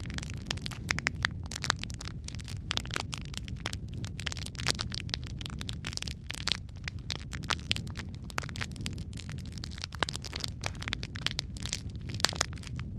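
Wood fire burning in a fireplace: a steady low rumble of flame with dense, irregular crackles and pops throughout.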